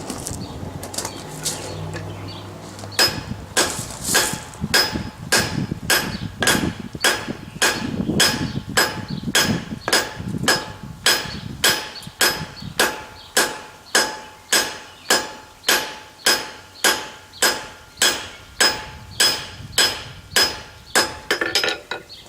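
Cross peen hammer striking a hot steel bar on an anvil in a steady rhythm, about one and a half to two blows a second, each blow ringing: the bar end is being spread out. The hammering begins about three seconds in, after a short stretch of low rumbling.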